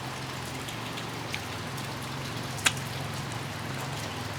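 Steady rain falling, with scattered drips and one sharper tap a little past halfway.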